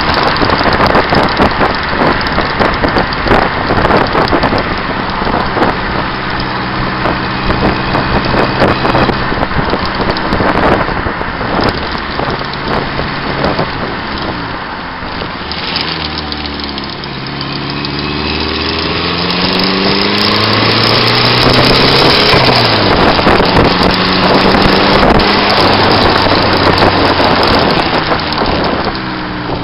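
The turbocharged SR20 four-cylinder engine of a 1990 Nissan Bluebird U12 under way at road speed, heard under heavy wind and road noise. The engine note falls and then climbs again around the middle as the car slows and accelerates.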